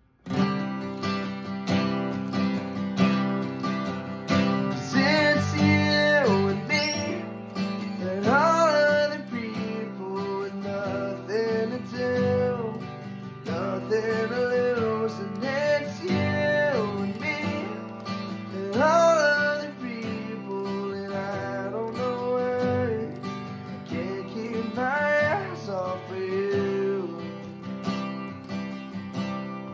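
Acoustic guitar strummed steadily through a song's chords, with a melody line gliding between held notes over it every few seconds.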